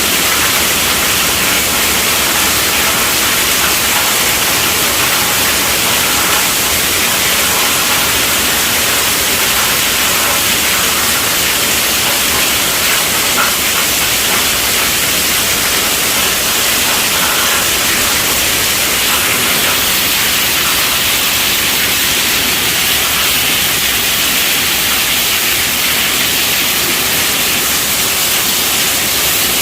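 Heavy rain falling on a tent roof: a steady, dense hiss with no breaks or changes.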